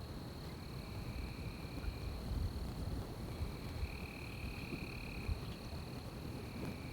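Night forest chorus: a steady high-pitched trill runs throughout. A lower trill comes and goes in three stretches of a second or two each, over a low rumble.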